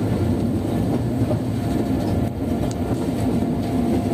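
Diesel passenger train running along the track, heard from inside the carriage: a steady low rumble of engine and wheels.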